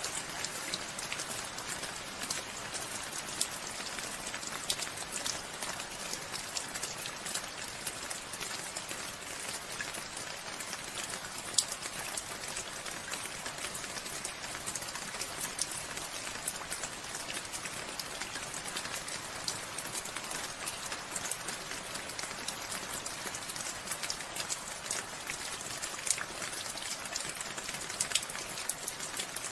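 Steady rain falling, a constant patter with many individual drops striking close by, one a little louder about a third of the way in.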